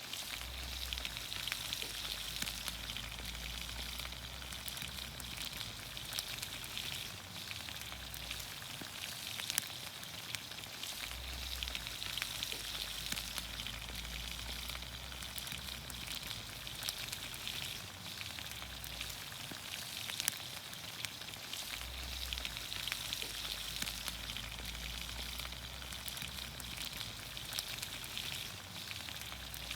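Green beans, onions, carrots and potatoes in olive oil sizzling over a campfire: a steady hiss with many small crackles and pops.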